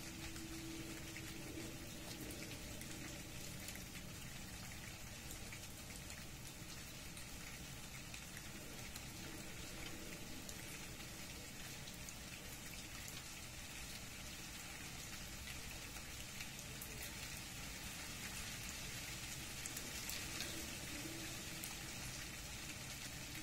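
Rain falling steadily, an even hiss scattered with many small drop ticks. A low steady hum sounds briefly at the start and comes back near the end.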